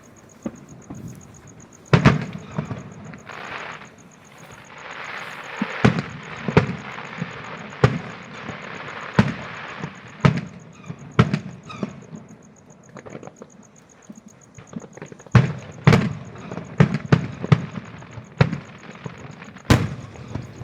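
Aerial fireworks going off: irregular sharp bangs one after another, bunching into a quick cluster in the last few seconds, with a hissing stretch in the middle.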